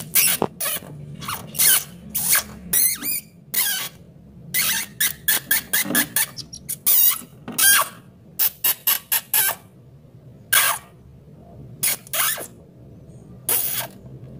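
Domestic canary singing in short bursts of rapid, high chirps and trills, with brief pauses between phrases.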